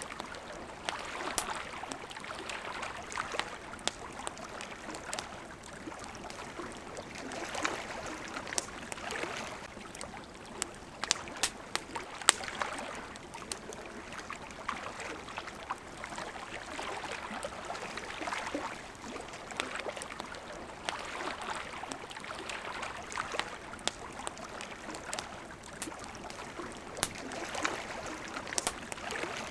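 Campfire crackling, with sharp pops scattered irregularly and bunched around the middle, over water lapping that swells and eases every few seconds.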